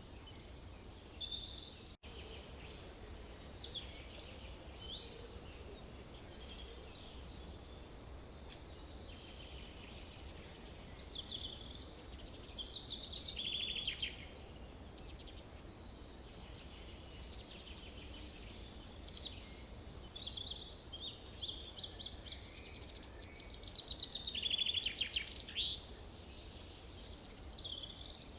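Forest birds singing and calling, many overlapping chirps and whistles, with louder rapid trills about twelve seconds in and again about twenty-four seconds in, over a faint steady background noise.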